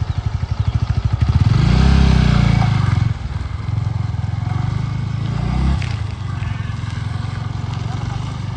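Yamaha MT-15's single-cylinder engine running with an even pulsing beat. It is revved up about a second and a half in and held for about two seconds before dropping back, rises briefly again near six seconds, then settles into a steady beat.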